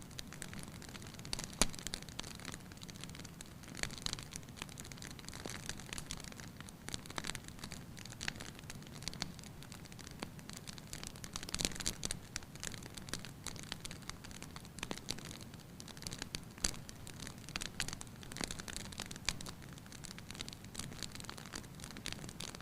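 Wood fire crackling in a fireplace: irregular pops and snaps over a soft, steady hiss.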